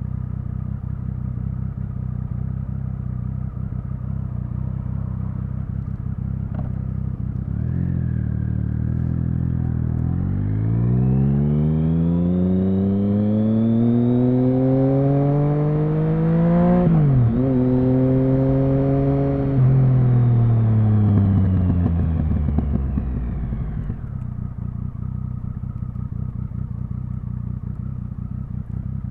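Triumph Speed Triple 1050's three-cylinder engine idling steadily, then pulling away with a rising exhaust note, shifting gear about halfway through and holding briefly. It then rolls off with a falling note and settles back to idle for the last few seconds.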